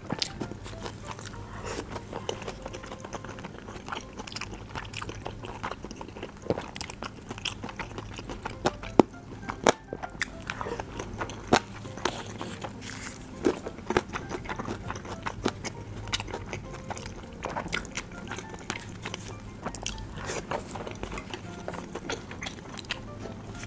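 Close-up chewing of boiled dumplings in chili oil, with frequent short sharp clicks scattered irregularly throughout and a few louder ones in the middle.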